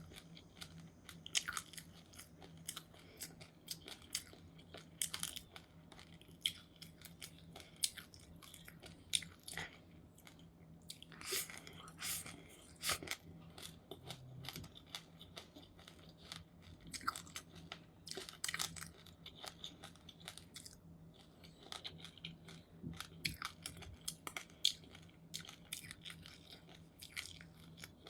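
Close-up chewing of seeds: a rapid, irregular run of small crisp crunches and clicks from the mouth.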